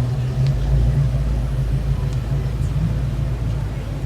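A car engine running with a deep, steady low rumble.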